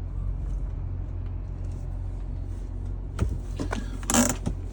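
2007 BMW 328i's 3.0-litre straight-six idling steadily shortly after a cold start, heard from inside the cabin. A few sharp clicks come about three seconds in, and a short rustling noise near the end.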